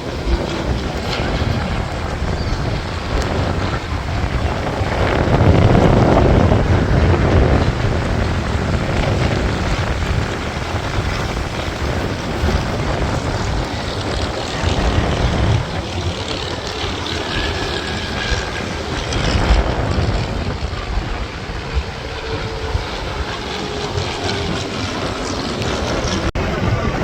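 Aircraft engine noise as a plane flies past, swelling loudest about five to eight seconds in, with wind buffeting the microphone.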